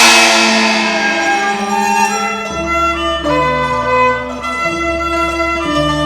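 Instrumental introduction of a Cantonese opera song: bowed strings play the melody, and the ring of a cymbal crash fades over the first second. Low sustained bass notes join about two and a half seconds in.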